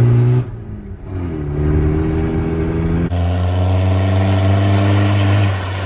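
A 4x4's engine under acceleration: its note climbs in pitch about a second in and then holds steady. About three seconds in it switches abruptly to a lower, steady engine note, which drops away near the end.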